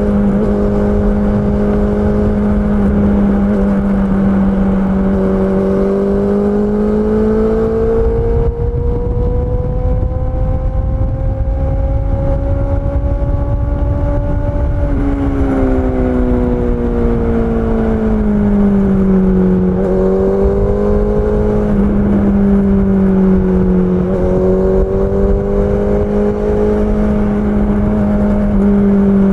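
Honda CB650R's 649 cc inline-four engine running, its pitch steady at first, then climbing slowly for several seconds before dropping about halfway through and rising and falling again in smaller swings.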